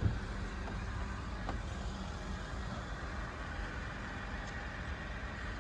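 Car engine idling close by: a steady low rumble with a faint constant hum.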